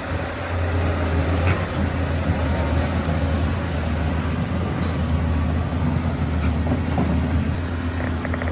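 Heavy earthmoving machine's diesel engine running steadily with a deep, even hum, with a few light rattles near the end.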